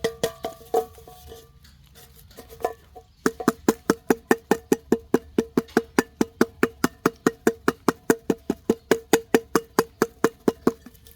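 Quick, even knocking on a hard object that rings at one fixed pitch: a few scattered knocks, then from about three seconds in a steady run of about five knocks a second.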